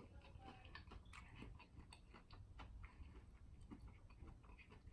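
Near silence with faint, scattered mouth clicks of someone chewing a bite of battered fried cauliflower.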